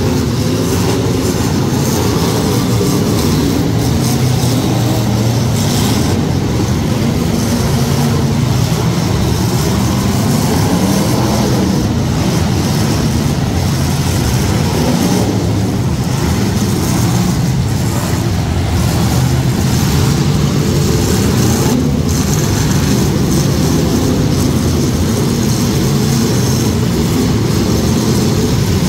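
Several demolition derby cars' engines running and revving together in a loud, steady drone.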